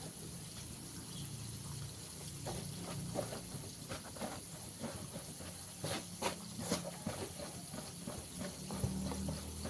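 Hands tossing and stirring chicken pieces in seasoned flour in a bowl, an irregular run of soft taps and rustles, with a few sharper clicks about six seconds in, over a steady low hum.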